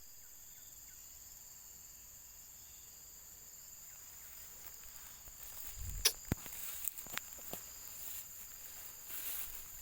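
Insects chirring steadily in high, unbroken tones. From about six seconds in, rustling and several sharp clicks and knocks come in over them.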